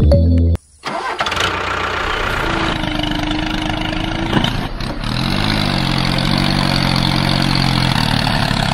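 Music cuts off just after the start. After a short gap, a tractor engine starts about a second in and then runs steadily with a low throb.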